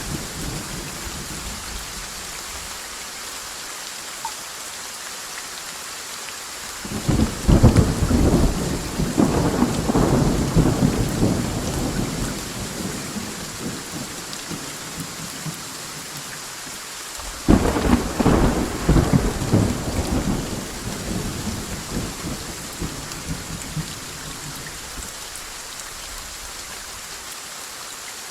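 Steady rain falling, with two loud rolls of thunder: one cracks in about seven seconds in and rumbles away over several seconds, and a second breaks suddenly about ten seconds later and fades the same way.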